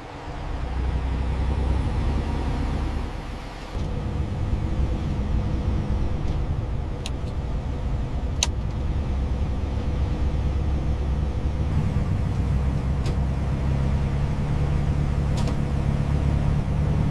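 Peterbilt truck engine running with a steady low rumble, its sound shifting abruptly about four seconds in. A few sharp clicks sound over it.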